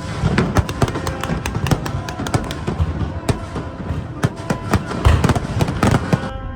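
Firecrackers going off in quick succession: many sharp cracks with deeper booms among them, heaviest about five seconds in.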